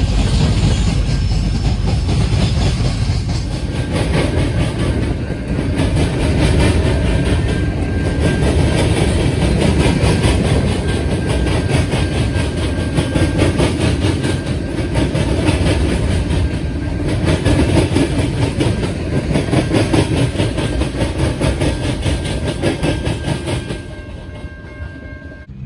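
Freight cars of a mixed manifest train rolling past, their steel wheels rumbling and clicking rapidly over the rails. The sound fades near the end.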